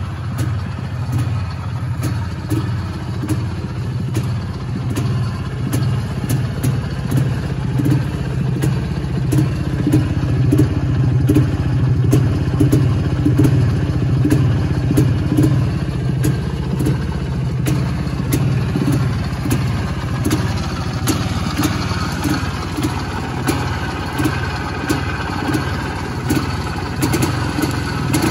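IZh Planeta 3-01's single-cylinder two-stroke engine idling steadily, with a little louder stretch around the middle.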